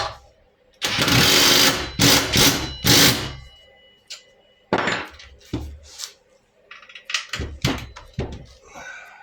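A power tool runs in three bursts, one about a second long and then two shorter ones, driving the bolts that hold a mini bike's motor to its frame. Scattered knocks and clinks of metal parts follow.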